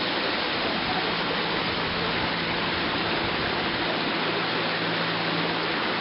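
Steady, even rushing of running water, unchanging throughout, with a faint steady hum underneath.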